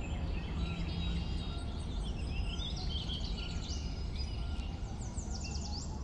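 Birds chirping and trilling over a steady low background noise, with a quick run of high chirps about five seconds in.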